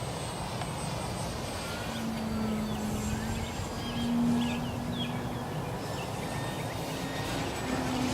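Wind buffeting the microphone, with the hum of the electric RC plane's motor and propeller coming and going a few times as it flies past, loudest about four seconds in. Birds chirp faintly in the background.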